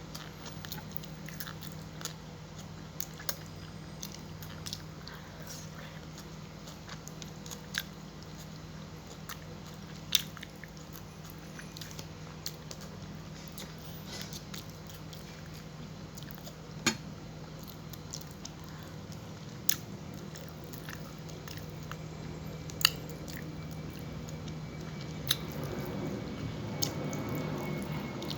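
Close-mic eating sounds of someone chewing fried tilapia and vegetables: wet chewing and biting, with a few sharp clicks and crunches scattered through. A steady low hum runs underneath.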